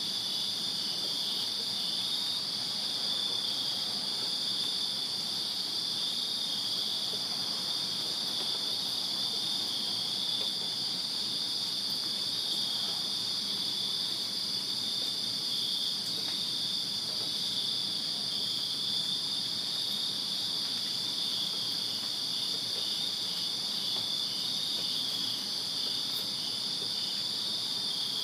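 Chorus of crickets chirping steadily on a summer night: a continuous high-pitched trill at two overlapping pitches.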